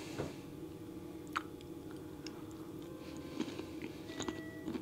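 A person chewing a steamed baby carrot, with a few short, faint crunches and mouth clicks over a low steady hum.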